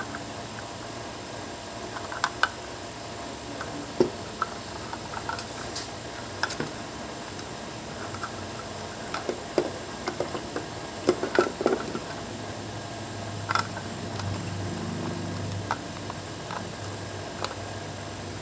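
Scattered light clicks and taps, thickest about eleven seconds in, over a steady hum. A low hum swells briefly near the end.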